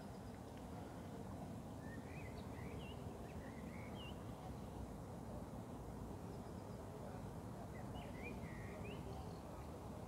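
Faint chirping calls of small birds in two short spells, about two seconds in and again near the end, over a steady low rumble.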